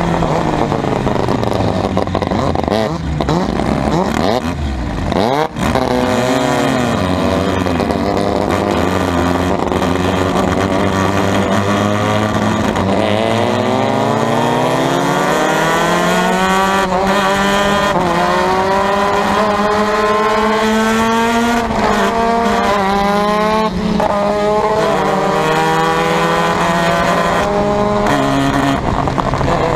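Formula Mazda race car's Mazda 13B two-rotor rotary engine under way, at lower revs at first. It then accelerates hard, the revs climbing and dropping back again and again as it shifts up through the gears.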